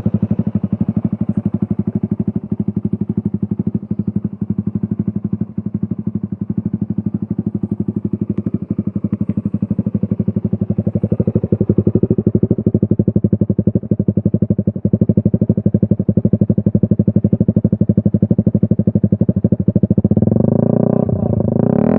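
Motorcycle engine idling steadily through an aftermarket Purbalingga-made exhaust, with an even, rapid pulsing beat.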